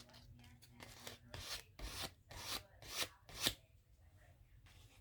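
Paper rubbed in about six short strokes, roughly two a second, each louder than the last.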